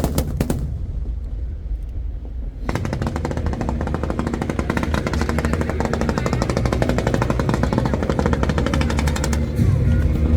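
Fireworks: a few loud bangs at the start, then from about three seconds in a dense, rapid crackling of many small bursts for several seconds, over background music.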